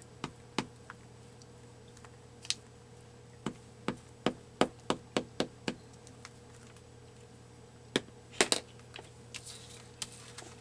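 A run of sharp taps and knocks on a craft work table as paper is glued down with a glue stick: about three taps a second for a couple of seconds, then a few louder knocks near the end.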